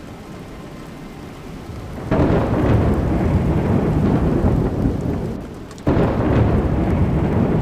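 Steady rain, then about two seconds in a loud rumble of thunder breaks in suddenly and rolls on for several seconds; it dips briefly and a second rumble starts abruptly near the end.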